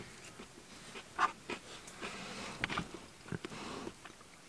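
Faint chewing and breathing of a man eating a chili-cheese burrito filled with crunchy Flamin' Hot Cheetos, with a few soft, short crunches about a second in and again near three seconds.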